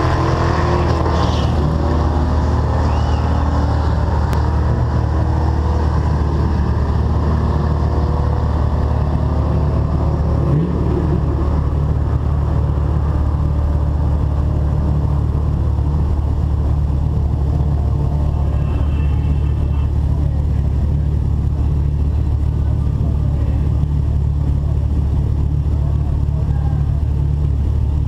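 Car engines idling with a steady, deep drone. In the first few seconds another engine note glides down over it.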